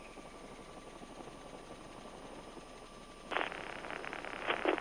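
Faint steady helicopter cabin noise heard through the aircraft's intercom and radio audio. About three seconds in, a radio transmission keys up with a burst of static and a few clicks.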